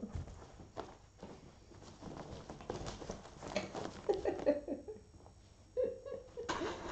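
A cat scrambling and pattering about in a fabric play tunnel: rustling, scratching and quick taps of paws. Two short pitched, wavering calls come through it, one near the middle and one near the end.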